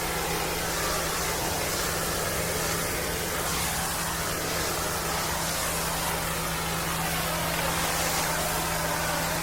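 Pressure-washing rig's engine running steadily, with a hiss of water spray that swells and fades several times.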